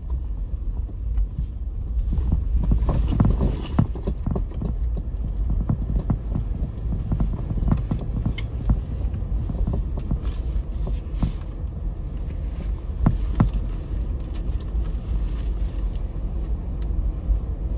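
Car driving slowly over a bumpy road, heard from inside the cabin: a steady low rumble from the tyres and engine, with frequent short knocks and rattles as the car jolts over the bumps.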